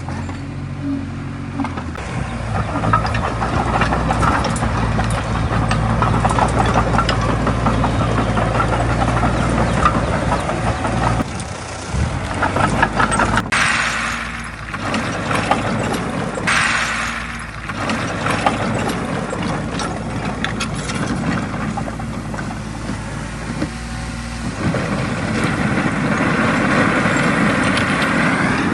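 Heavy earthmoving machine's diesel engine working, its pitch and loudness rising and falling with the load. Two brief hissing bursts come about halfway through.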